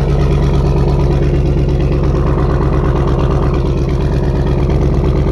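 2008 GMC Denali XL's V8 engine idling steadily and loud just after a cold start, sounding nasty.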